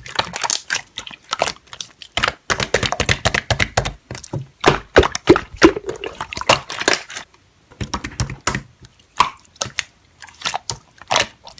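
Slime being squeezed and pressed by hand: a fast, irregular run of wet clicks, pops and squishes.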